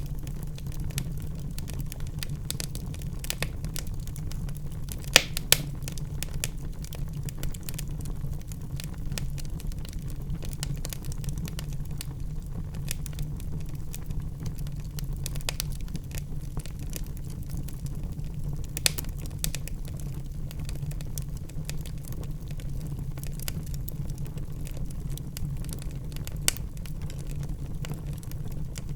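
Wood fire burning in a fireplace: a steady low rumble of the flames under constant crackling, with a few sharper, louder pops from the burning logs.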